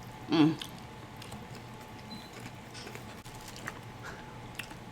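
Faint eating sounds: soft mouth clicks and chewing. A short hummed voice sound comes about half a second in.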